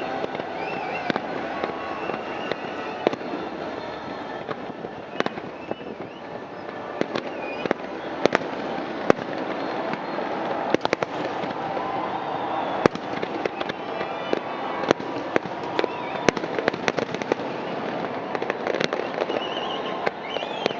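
Fireworks display: many sharp bangs at irregular intervals, several a second at times, over a continuous crackling haze.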